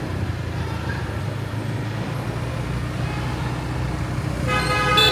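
Motorbike engine running steadily with road and traffic noise while riding through city streets; a vehicle horn sounds near the end.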